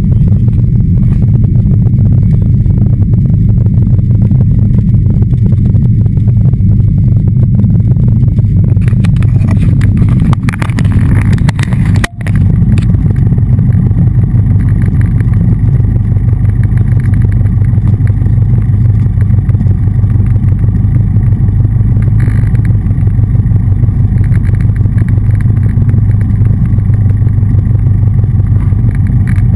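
Steady, loud drone of a Cessna 177RG Cardinal's four-cylinder Lycoming engine and propeller in flight, heard from the aircraft. The sound cuts out for an instant about twelve seconds in.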